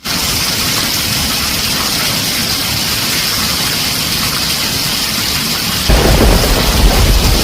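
Heavy rain drumming steadily on a tin roof. About six seconds in, a loud low rumble of thunder sets in abruptly and keeps rolling over the rain.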